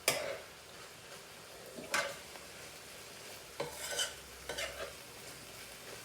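Minced chicken frying in a pan with a faint sizzle, as a cooking utensil stirs it in a few separate strokes, scraping and knocking against the pan near the start, about two seconds in, and in a quick cluster around four seconds in.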